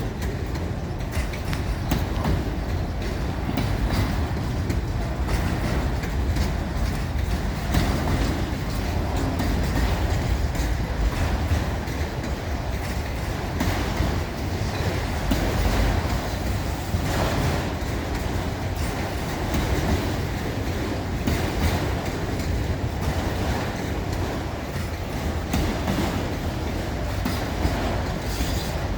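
A train rolling past, its cars' wheels clicking over the rail joints in a steady, continuous rumble.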